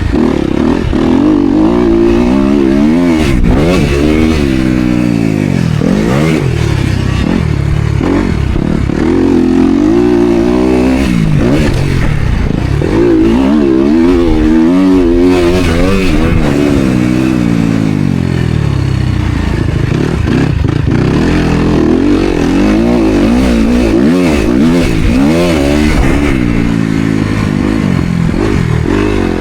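Dirt bike engine racing hard, its revs climbing and dropping again and again as the throttle is worked and the gears change.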